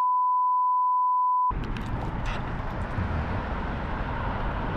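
A steady, pure electronic beep tone that cuts off abruptly about a second and a half in. It gives way to outdoor background noise with a low rumble.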